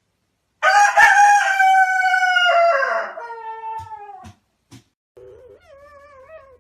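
A rooster crowing once: a long, loud call that falls away at the end. Near the end a softer, wavering whine begins, the start of a dog whimpering.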